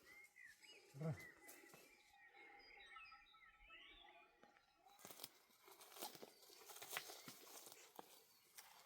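Faint chirps and twittering of small birds over the first half, with a short low thud about a second in; in the second half, scattered light clicks and knocks.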